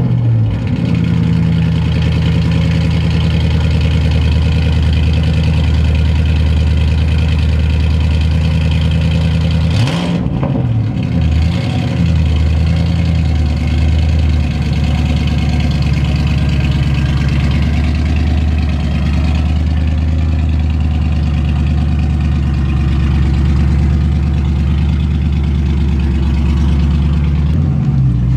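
Ford Mustang engine idling through a new exhaust with the silencer box removed from one side, so one pipe runs without a silencer. The throttle is blipped about ten seconds in, the pitch rising and falling, and it revs again near the end.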